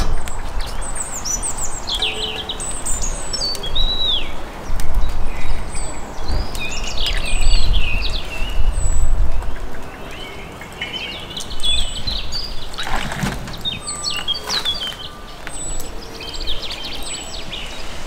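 Small songbirds chirping and twittering in short repeated calls, over a low outdoor rumble, with one knock about thirteen seconds in.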